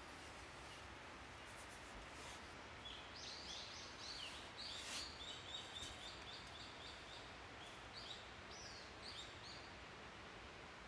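Faint steady background hiss, with a small bird singing quick runs of high chirps from about three seconds in until near the end.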